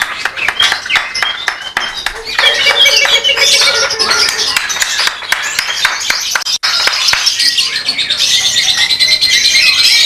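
Many caged contest birds, lovebirds among them, chirping and trilling at once in a dense, rapid, high twittering.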